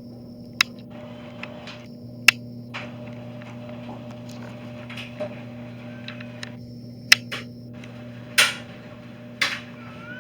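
Steady low electrical hum, with a few sharp clicks and soft brief rustles scattered through it.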